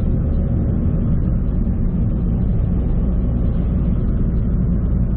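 Steady low rumble of a moving car, engine and tyre noise on the road, unchanging throughout.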